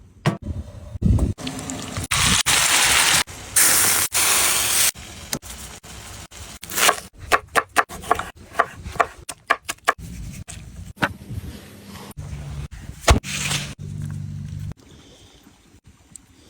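A string of short camp-cooking sounds while making a chicken wrap: two loud hissing bursts early on, then a quick run of sharp taps and clicks, and scattered knocks and scrapes.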